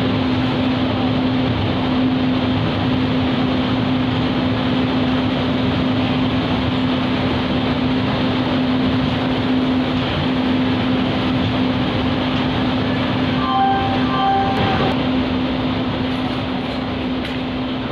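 Indian Railways passenger coaches rolling steadily past along the platform, a continuous rumble of wheels on rail with a steady low hum beneath. About fourteen seconds in, a short two-part tone sounds briefly over it.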